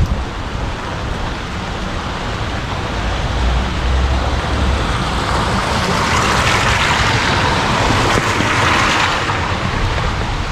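Heavy rain hissing steadily, with a vehicle passing on the wet road: a low engine rumble a few seconds in, then tyre spray swelling in the middle and fading away.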